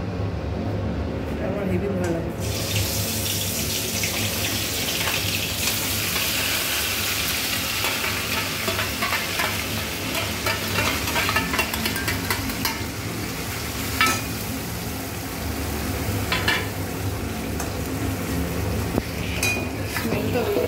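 Green paste and onion paste going into hot oil in a steel wok: a sudden loud sizzle starts a couple of seconds in and carries on. A steel spatula scrapes and clinks against the tray and wok a few times, over a low steady hum.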